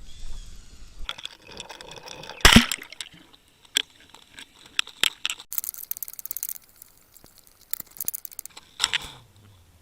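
Fishing gear being handled on a boat: scattered knocks and clicks, a sharp bang about two and a half seconds in, and two runs of rapid clicking later on.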